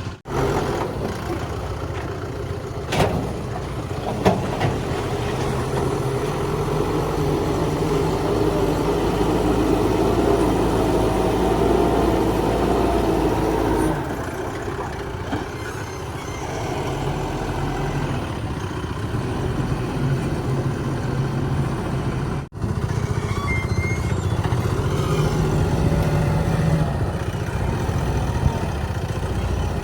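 Heavy diesel engines of backhoe loaders and trucks running and working under load, with two short knocks about three and four seconds in. The sound breaks off for a moment about two-thirds of the way through.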